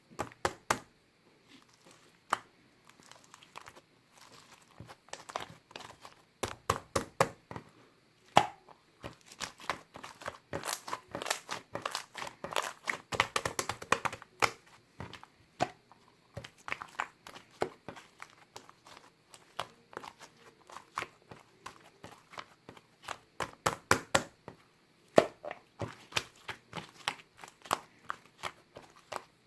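Hands squishing and poking a soft slime, making rapid irregular sticky clicks and wet pops, busiest in the middle and again near the end.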